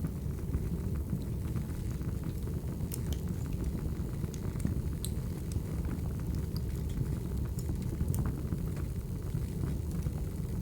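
Firewood burning: a steady low rumble with scattered sharp crackles and pops every second or two.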